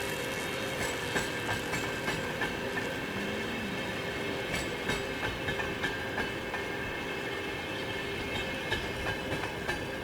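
Train rolling past, its wheels clicking and clacking irregularly over the rails against a steady rumble with a few held ringing tones.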